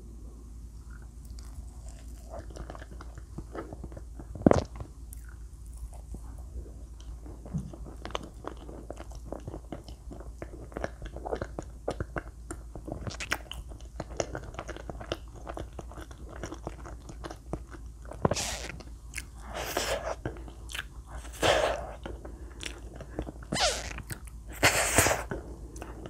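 Close-miked chewing and wet mouth sounds of someone eating soft cream-filled sponge cake, with many small clicks of the lips and tongue. A single sharp click comes about four seconds in, and several louder, longer bites and chews come near the end.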